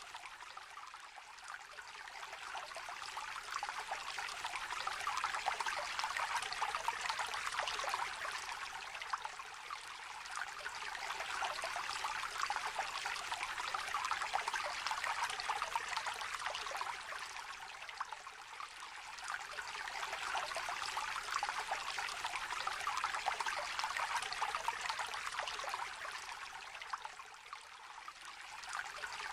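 A shallow, gently trickling river babbling steadily, its rush swelling and easing in slow waves about every nine seconds.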